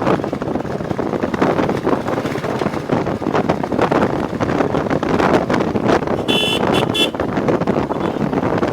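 Royal Enfield Bullet Classic 350 single-cylinder motorcycle running at road speed, with wind buffeting the microphone. A horn sounds in a few short toots about six and a half seconds in.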